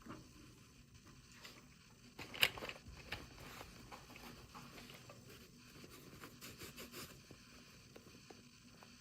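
Faint handling of toy packaging during an unboxing: small clicks, scrapes and rustles, with one sharper click about two and a half seconds in and a quick run of light clicks near seven seconds.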